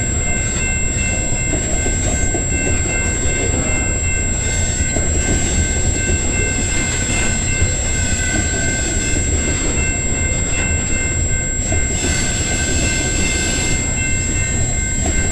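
Covered hopper cars of a CPKC freight train rolling past close by: a steady rumble of steel wheels on the rails.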